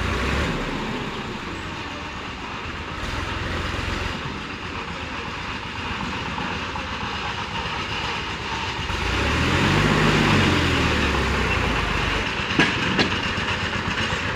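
A heavy vehicle's engine running amid steady mechanical noise, its pitch rising and then falling once about two-thirds of the way in; two sharp knocks near the end.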